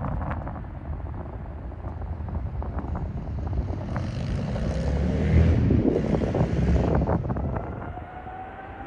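Jet airliner passing, its engine noise swelling to a peak in the middle and then easing off, over a steady low rumble of wind on the microphone.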